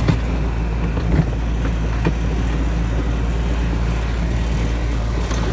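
Tractor engine running at a steady speed, with a few knocks and rattles.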